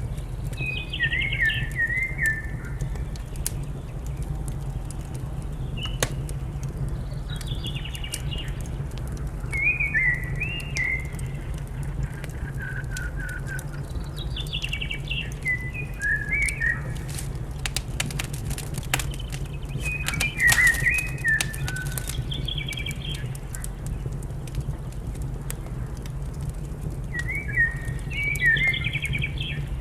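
A songbird singing short, warbling phrases every few seconds, over scattered sharp crackles from a wood fire and a steady low rumble.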